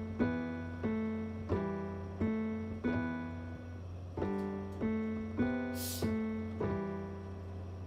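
Keyboard music with a piano sound: chords struck in an even rhythm about every two-thirds of a second over a steady low bass note. A short hiss cuts across the music about six seconds in.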